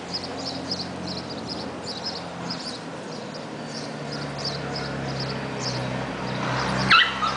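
A small bird chirping over and over in quick short high notes, over a low steady hum. About seven seconds in there is one brief, louder high-pitched squeal.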